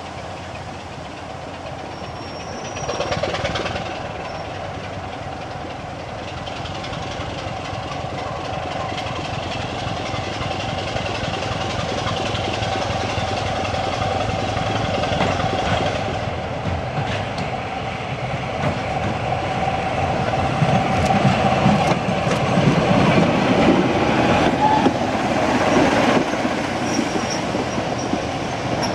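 BR Class 25 diesel-electric locomotive D7523, its Sulzer six-cylinder engine running as it passes. It grows steadily louder, is loudest a few seconds before the end, and has a brief louder burst about three seconds in.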